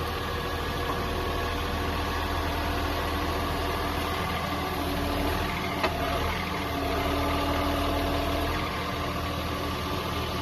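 John Deere 3046R compact tractor's diesel engine running steadily, with a slight change in pitch partway through and one sharp knock about six seconds in.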